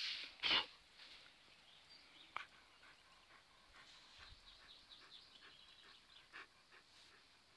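Small birds chirping and singing in the background, many short high calls. Near the start there is a short, loud burst of noise right at the microphone, and a sharp click comes a couple of seconds in.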